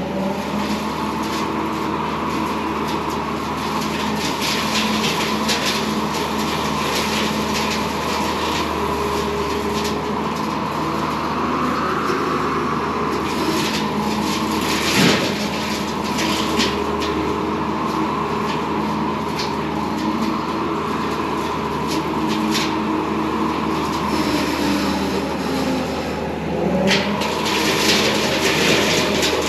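Bobcat T595 skid steer's diesel engine running steadily under load, driving the hydraulic brush mower, with a few sharp knocks and snaps as it cuts brush, the loudest about halfway through.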